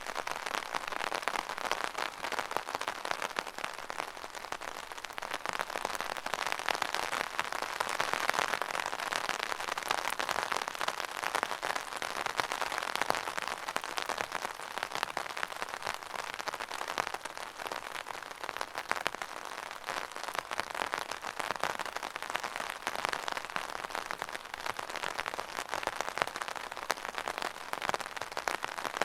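Steady rain with dense, crackling patter of drops on a hard surface, swelling and easing slightly in intensity.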